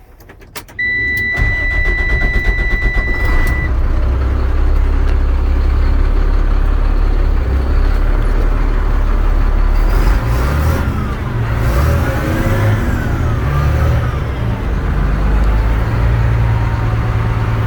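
A 2004 Sterling truck's Cat C7 diesel engine starts about a second in and runs steadily, its pitch shifting a little in the middle. A steady high warning buzzer sounds for the first few seconds after the start.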